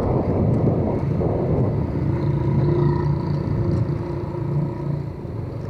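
Motorcycle engine running at a steady cruise with low road and wind rumble on the microphone, fading down near the end.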